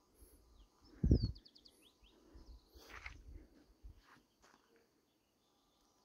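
A wild bird gives a short trill of quick, high, falling chirps about a second in, just after a single low thump, the loudest sound. Faint rustles, a few clicks and low rumble follow.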